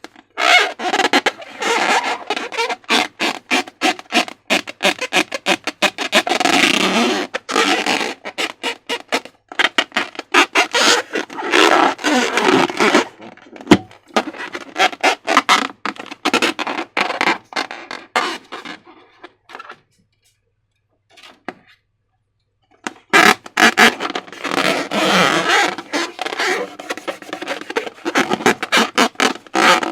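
Slime being squished and worked by hand, a dense run of wet squelches and crackling clicks that stops for about three seconds past the middle, then resumes.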